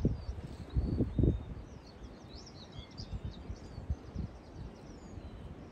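Small birds chirping and singing in a steady scatter of short, sweeping calls. About a second in come a few short, low rumbles, louder than the birds.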